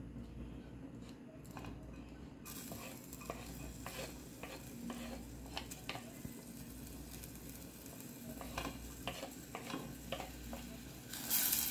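Chopped onion and garlic sizzling in hot oil in a pan, stirred with a utensil that clicks and scrapes against the pan. The sizzle comes in suddenly about two and a half seconds in.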